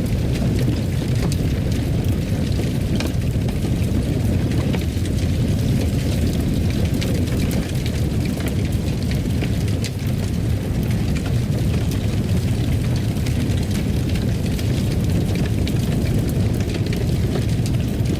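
Fire burning in a fireplace: a steady low rumble with faint scattered crackles.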